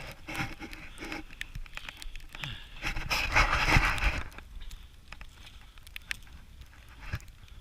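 Footsteps trudging through deep snow, with wind noise on the microphone; a louder rush of noise comes about three seconds in and lasts about a second.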